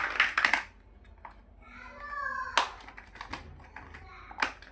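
Plastic building bricks being handled and pressed together: a quick run of sharp clicks at the start, then single snaps spaced about a second apart. A brief falling squeak comes about two seconds in.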